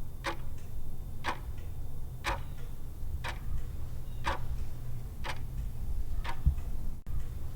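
Clock-ticking countdown sound effect, about one sharp tick a second, over a steady low hum.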